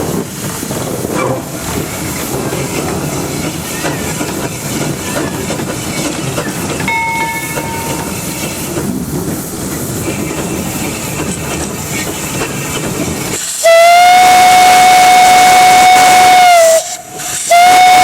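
Narrow-gauge steam locomotive running, with steady hiss and rattle. About two-thirds of the way in, its steam whistle blows loud and close as one steady held tone for about three seconds, cuts off briefly, then sounds again near the end.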